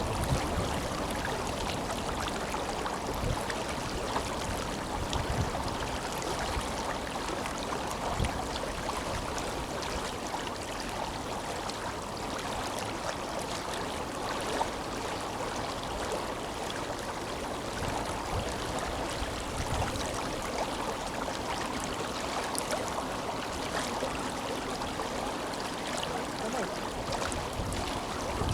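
Tenryū River flowing: a steady rush of water over its bed, with a few short low thumps here and there.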